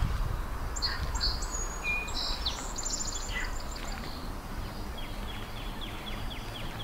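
Small songbirds chirping and trilling, then a fast run of repeated high notes in the second half, over a low rumble.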